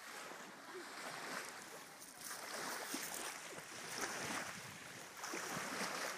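Small waves washing and lapping along the shoreline, swelling and easing every second or two, with faint wind on the microphone.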